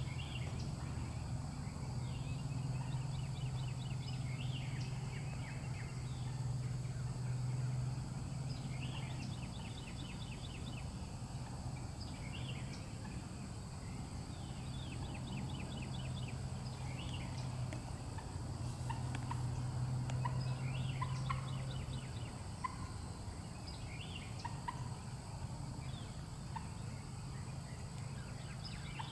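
Wild birds calling in the woods: short rattling trills repeated every couple of seconds, with scattered single chirps, over a low hum that fades in and out.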